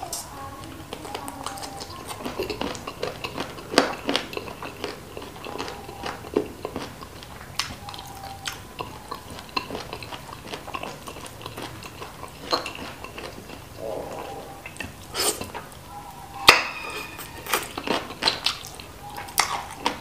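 Close-miked eating of chicken feet in spicy chili sauce: irregular wet lip smacks, sucking and chewing. Sharp clicks are scattered through, with a few louder ones near the end.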